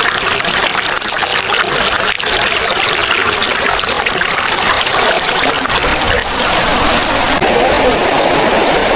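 Small waterfall's rushing water, a steady hiss; about six seconds in a deeper rumble joins it.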